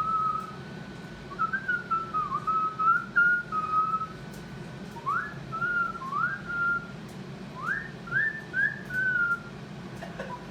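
Whistling: a string of clear, high whistled notes, held and wavering at first, then from about halfway a run of quick upward swoops, each ending in a short held note.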